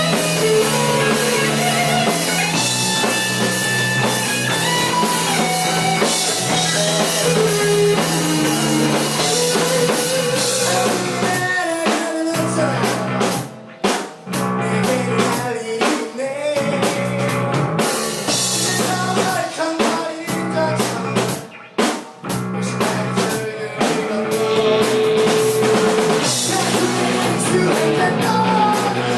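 Rock band playing live, with drum kit and guitar. The band cuts out briefly for stop-time breaks about thirteen and twenty-one seconds in.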